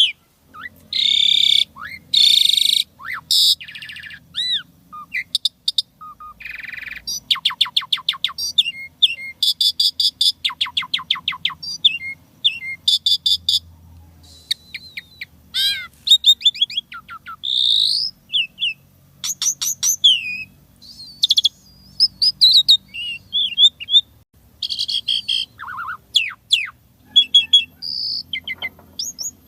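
Pied starling (jalak suren) singing a fast, varied song with almost no pause: runs of short repeated whistles, rising and falling slurred notes, and buzzy, rattling phrases, typical of the species' mimicry-rich 'isian' song.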